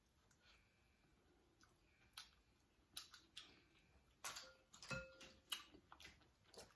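Near silence with faint, scattered clicks of a person chewing king crab meat, the clicks coming more often in the second half.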